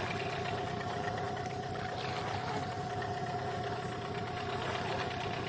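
Outboard boat motor running steadily at low throttle, a new engine being run in, with an even drone that holds the same pitch throughout.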